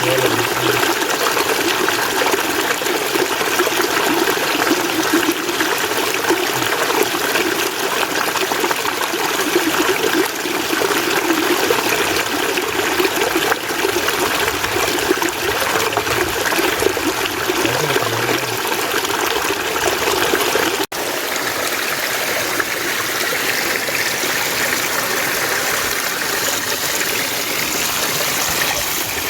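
Mountain stream water running steadily. There is a sudden break about two-thirds through, after which the water runs on slightly quieter.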